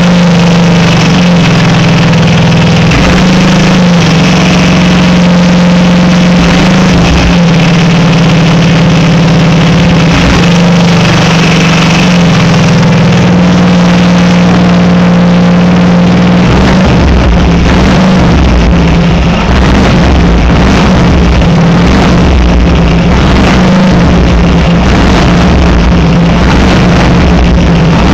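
Racing lawnmower's small engine running loud through dual 3-inch exhaust pipes, holding a steady speed at first, then turning rougher with a deeper, choppier beat after about sixteen seconds.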